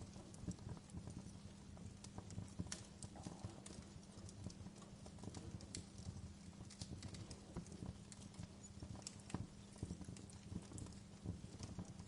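Wood fire crackling in a fireplace: irregular sharp pops and snaps of burning logs over a low rumble, with a faint steady low hum beneath.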